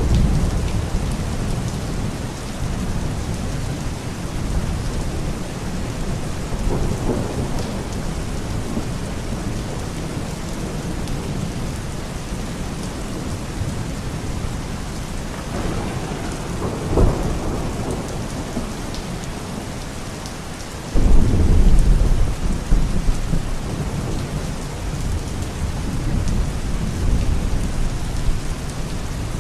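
Steady rain with several rolls of thunder. The loudest rumble breaks in suddenly about two-thirds of the way through and rolls on for a few seconds.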